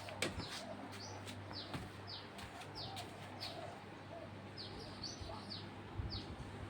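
Short, high chirps that drop in pitch, repeated irregularly about every half second, like a small bird calling. Under them is the steady low hum of a running ceiling fan's motor.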